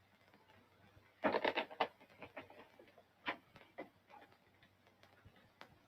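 Light handling sounds, most likely paper: a quick cluster of crisp clicks and rustles about a second in, then a few scattered soft ticks.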